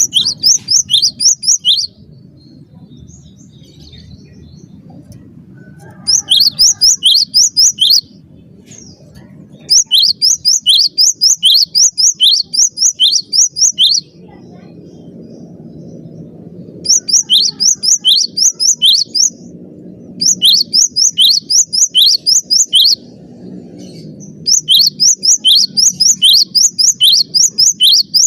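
Cinereous tit (gelatik batu) singing loudly and continuously: phrases of quick, sharply falling high whistled notes, about three a second. Each phrase lasts two to four seconds, with short pauses between phrases. A faint low hum fills the pauses.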